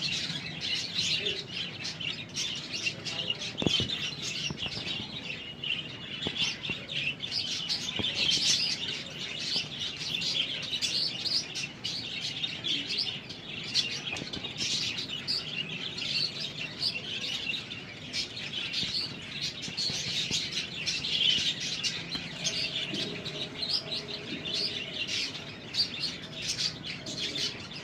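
Budgerigars chirping and chattering steadily, many short high calls overlapping without a break.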